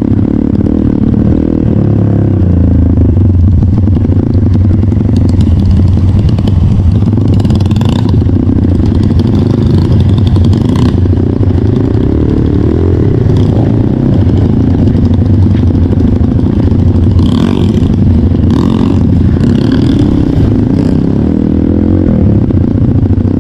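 Trail motorcycle engine running under load as the bike rides a rough trail, the pitch rising and falling with the throttle, with clattering knocks from the bike over rough ground now and then.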